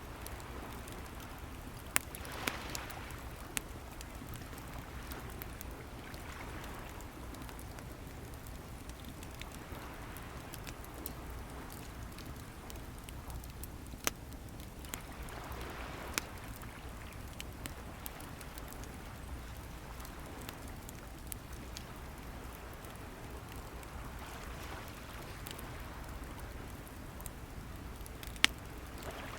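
Wood bonfire crackling, with a few sharp pops, over waves washing in and drawing back in slow swells every four to six seconds.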